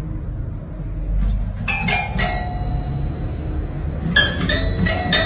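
Bell-like metallic dings, each ringing on briefly: three strikes close together about two seconds in, then four more, roughly a third of a second apart, near the end, over a steady low rumble.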